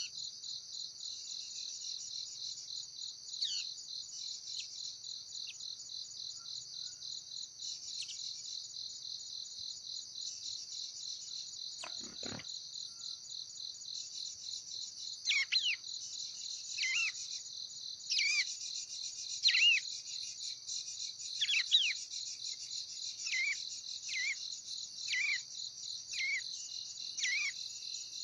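Insects trilling steadily at a high pitch throughout, and from about halfway in a small bird, a prinia, giving a run of short downward-sliding chirps roughly once a second. A single low thump sounds shortly before the chirps begin.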